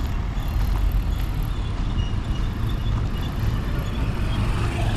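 Steady low rumble of road vehicle noise, engine and tyres, with no distinct events.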